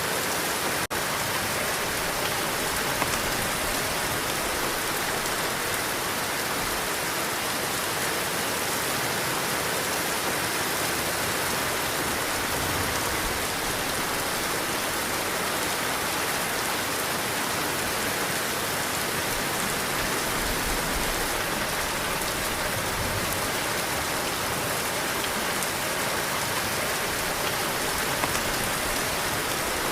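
Heavy rain falling steadily, a dense even hiss of drops on surfaces, with a few low swells of wind. A brief click about a second in.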